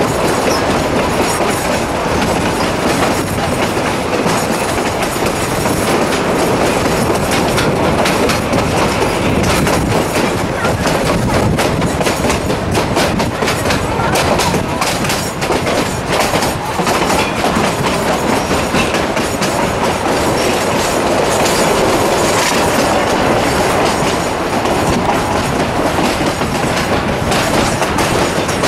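Durango & Silverton narrow-gauge passenger train running, heard from aboard one of its cars: a steady rumble of wheels on rail with clickety-clack over the rail joints, the clicks thickest around the middle.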